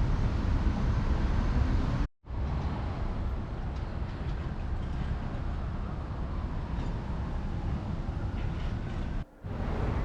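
City street traffic: a steady low rumble of passing vehicles, with faint rising and falling engine tones. The sound cuts out completely for a moment twice, about two seconds in and near the end.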